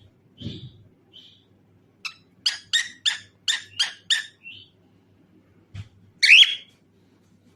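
Cockatiel calling: a few soft chirps, then a quick run of about seven sharp chirps at roughly three a second, then one loud, harsh call that glides in pitch near the end.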